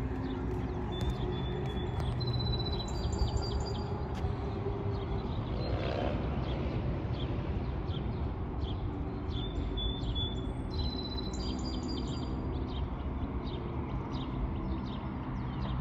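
A songbird singing short high notes in two bouts, one near the start and one past the middle, over a steady low rumble.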